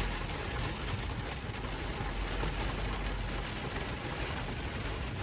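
Heavy rain falling steadily, with many small drop hits and a low rumble underneath.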